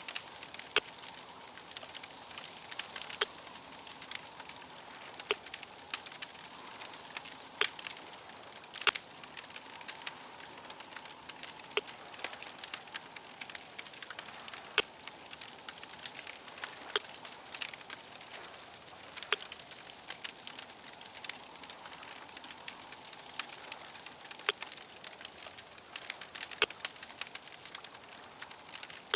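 Wood fire crackling, with a steady hiss under frequent irregular sharp pops and snaps.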